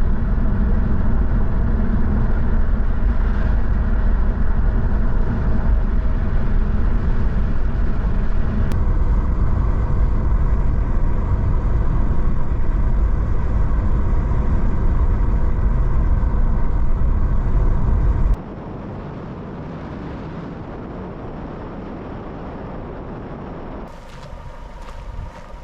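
Tarpon 9.9 outboard motor running under way on a small inflatable boat, a loud, steady low rumble mixed with wind and water noise. About two-thirds through it cuts abruptly to a much quieter, steady engine-and-water sound, with another cut near the end.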